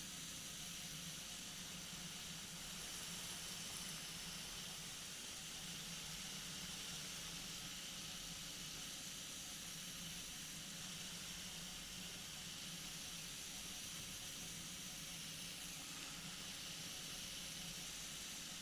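Steady hiss over a faint, even low hum from a flexwing microlight trike in flight, picked up through the pilot's headset intercom: engine and airflow muffled to a constant drone with no change in power.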